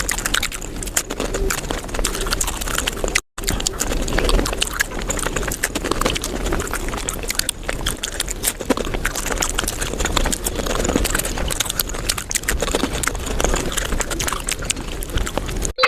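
Mouth sounds of eating dahi puri sped up fivefold: a dense, rapid chatter of crunching, chewing and slurping clicks, cut off for an instant about three seconds in.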